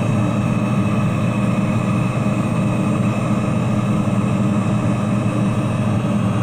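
Electric heat gun running steadily, its fan and heating element blowing hot air onto wood pellets to light them: a constant whirring hum.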